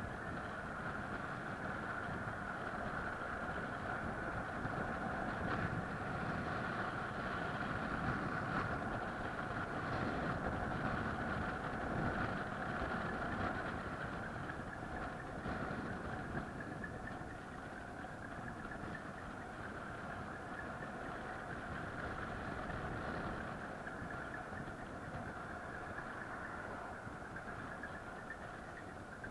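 Vehicle engine running steadily under a constant rumble, its hum climbing slightly in pitch about halfway through.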